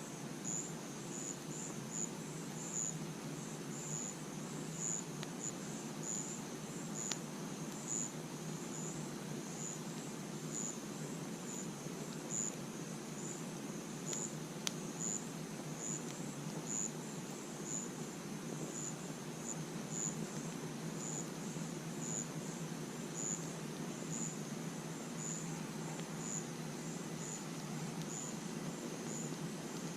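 Crickets chirping in a steady, even rhythm of about three high chirps every two seconds, over a low steady hiss. A campfire gives a few sharp pops along the way.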